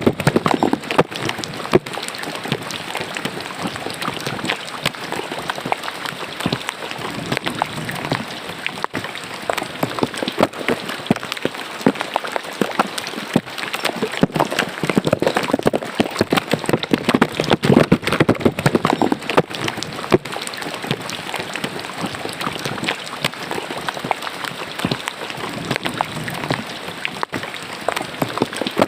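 Rain falling with rainwater running into a roadside drain: a dense patter of drops over a steady wash of water, swelling a little around the middle.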